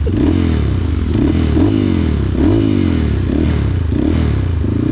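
Trail dirt bike engines: one revved over and over in short rises and falls, about once a second, over a steady low engine drone. This is typical of a bike bogged in knee-deep mud.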